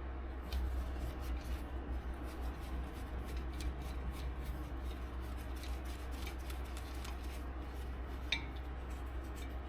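Faint, irregular clicks and scraping of hand tools being worked on a wheel hub, over a steady low hum.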